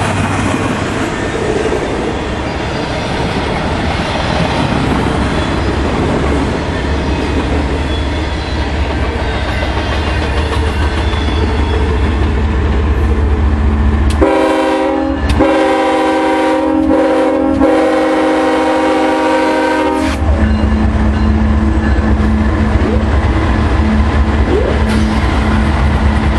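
Canadian Pacific GE diesel freight locomotives passing close by, with a steady engine rumble and wheels on the rails. About 14 seconds in, a multi-note locomotive air horn sounds: a short blast, then a long one of about five seconds that cuts off suddenly, after which the engine rumble returns as the next unit goes by.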